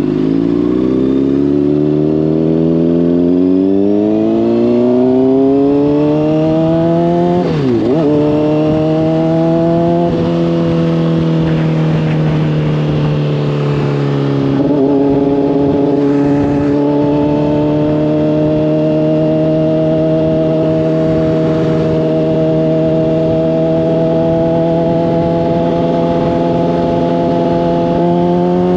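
Honda CBR600RR's inline-four engine through a slip-on exhaust, pulling hard with the revs rising. It makes a quick gear change about eight seconds in and another change around fifteen seconds, then holds a steady pitch before rising again near the end.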